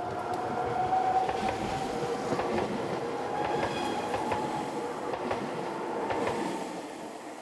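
Electric commuter train running on its rails, with a steady whine through most of it and scattered clicks of the wheels over the track, fading away near the end.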